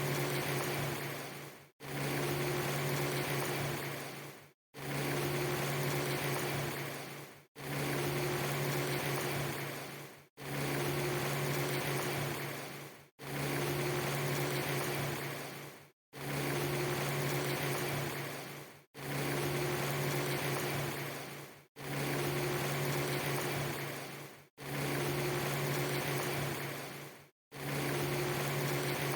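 A steady machine-like hum under an even hiss, played as a short loop about three seconds long that drops out to silence for a split second between repeats.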